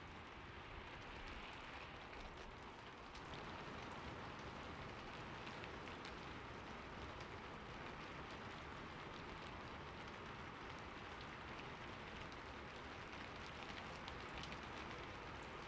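Steady rain falling on a roof: an even hiss with individual drops ticking through it, getting a little louder about three seconds in.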